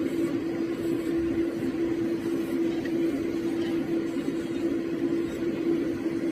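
A steady mechanical hum: one constant low tone over an even rushing noise, unchanging throughout.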